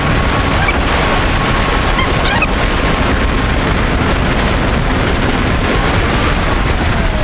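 Loud, steady wind buffeting over the microphone of a Kawasaki Ninja 400 being ridden at speed, with the bike's engine and road noise beneath it.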